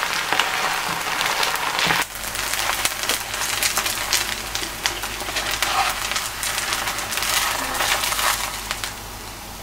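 Vegetable pancake (yachaejeon) frying in oil in a pan: a steady sizzle thick with crackling and popping, which fades quieter shortly before the end.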